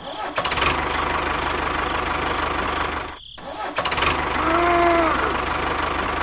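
A small motor running with a fast, even rattle. It cuts out briefly about three seconds in, then starts again.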